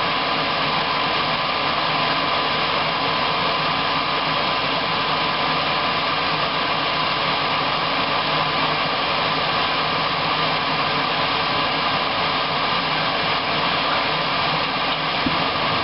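Atwood Hydro Flame 8531-II RV furnace fan running steadily with a thin, even whine, before the burner has lit.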